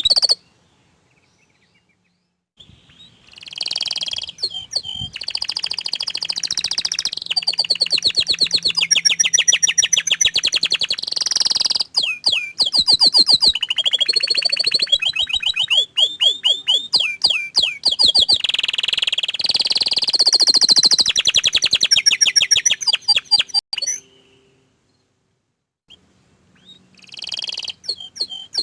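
Orange frost canary singing: long phrases of very fast repeated notes and trills, with a pause of about two seconds just after the start and another near the end.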